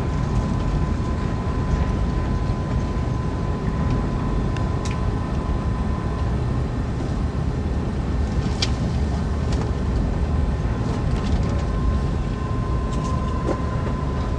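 Amtrak Acela Express running at speed, heard from inside a passenger car: a steady low rumble of wheels on rail with a faint constant whine, and a few sharp clicks, the loudest about nine seconds in.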